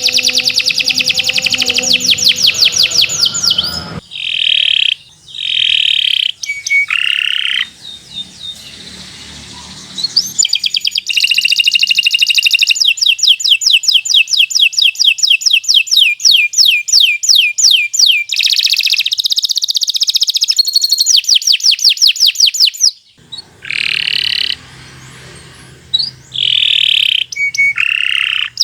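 Domestic canary singing a long, fast song: runs of rapidly repeated trilled notes alternating with buzzy rolling phrases, broken by short pauses between phrases.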